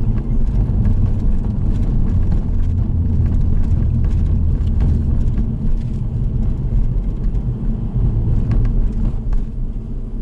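Car driving, heard from inside the cabin: steady low engine and road rumble.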